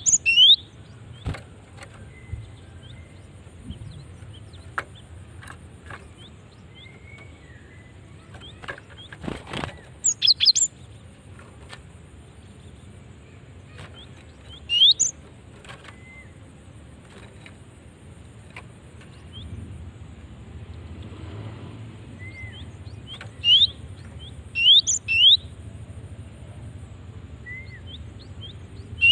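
Female cinereous tit (gelatik batu) calling in short groups of sharp, quickly rising chirps, several times with pauses of a few seconds between the groups. Faint clicks sound in between.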